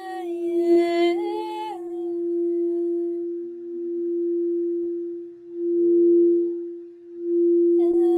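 Singing bowl sounding one steady, sustained tone that swells and fades in slow waves. A voice hums or sings a held note over it for the first couple of seconds and again at the very end.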